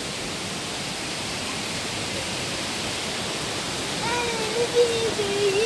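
Steady rushing of water from a waterfall swollen by heavy rain. About four seconds in, a child's high voice comes in with a drawn-out, fairly level sound.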